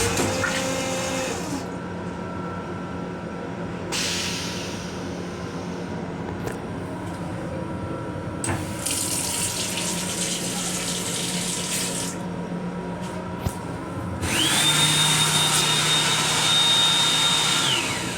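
Water fixtures in a Metro-North M7 railcar restroom: the water runs in several short spells over a steady hum from the train. Near the end a motor starts with a rising high whine, holds steady for about three seconds with the rush of air or water, then winds down.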